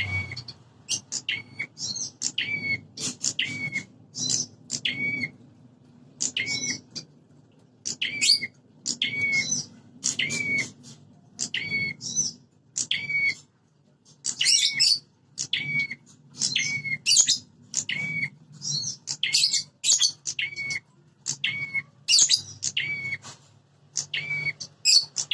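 Prenjak kepala merah (a small Indonesian prinia/tailorbird-type warbler) giving loud, sharp chirping calls, about one short burst a second, each ending in a clear note. These are agitated territorial fighting calls, the kind played to provoke other prenjak into calling.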